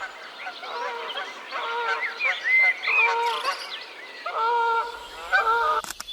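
Geese honking: many overlapping, repeated calls, with a few higher rising notes among them. A sharp click near the end.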